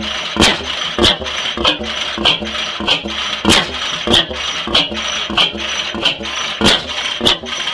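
25 hp South Penn 'Half Breed' oil field engine, converted from a steam engine and fired by hot-tube ignition on propane, running slowly and steadily. It beats out a sharp knock about every 0.6 seconds, with lighter clicks between.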